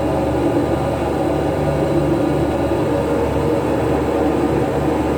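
Steady, loud drone of a shrimp trawler's engine and deck machinery running without a break.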